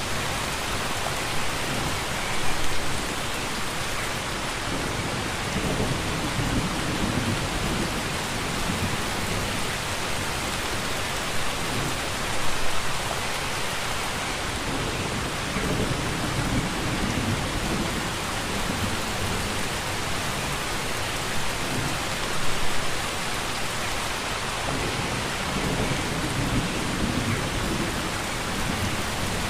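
Steady rain, a dense even hiss, with low rumbles swelling up about every ten seconds.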